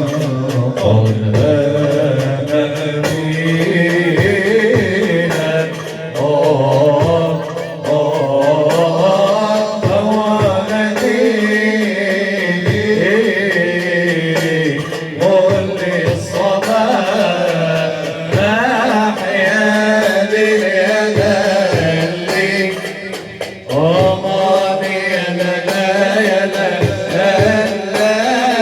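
Arabic nasheed music: a sung Middle Eastern melody with long, wavering, ornamented lines.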